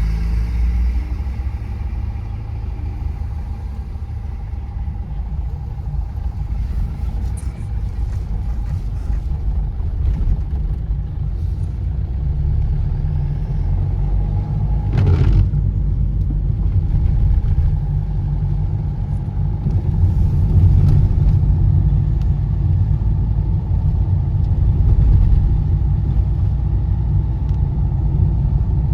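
Car driving at road speed: a steady low rumble of engine and tyre noise, with one brief louder sweep about halfway through.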